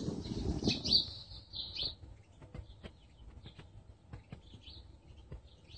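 Small birds chirping: a quick run of high chirps in the first two seconds, then fainter scattered chirps.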